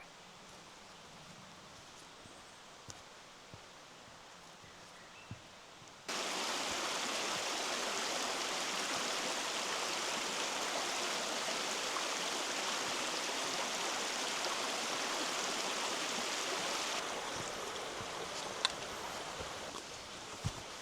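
Faint outdoor ambience with a few light ticks, then about six seconds in a sudden cut to the steady rushing of a forest stream, which eases a little near the end.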